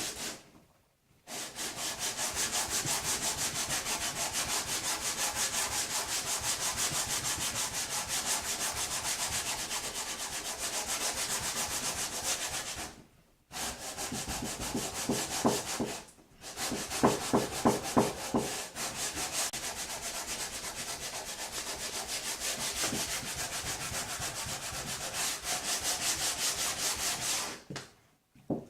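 120-grit sandpaper on a hand sanding block rubbing back and forth along a timber workpiece with the grain, taking off machining lines and surface blemishes. The strokes are steady and rhythmic, breaking off twice briefly in the middle and stopping shortly before the end.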